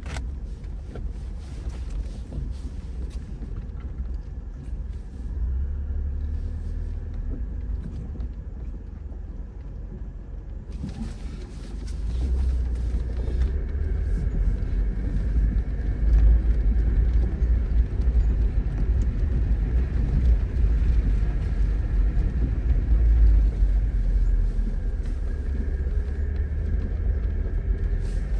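Tofaş Doğan SLX engine running with a steady low rumble, growing louder about twelve seconds in and again a few seconds later.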